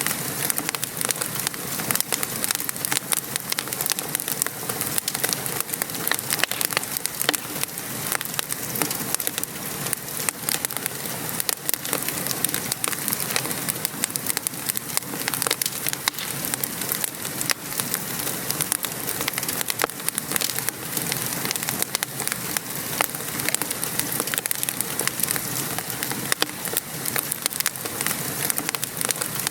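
Steady rain pattering outside, mixed with a wood fire crackling, with many small pops throughout.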